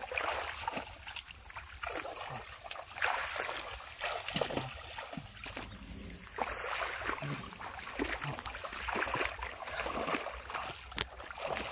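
Shallow water splashing and sloshing in irregular bursts as hands grope through a flooded paddy field for fish, with one sharp click near the end.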